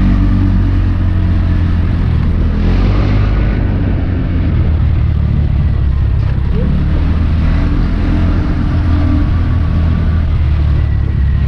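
Small motorbike engine running steadily while riding, heard from on board with road and wind noise.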